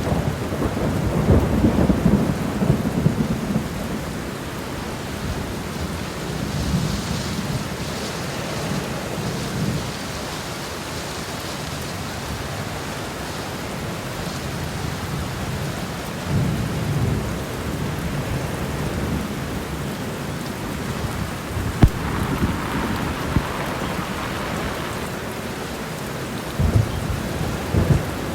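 Steady rain with thunder rumbling low several times, and a couple of short sharp cracks near the end.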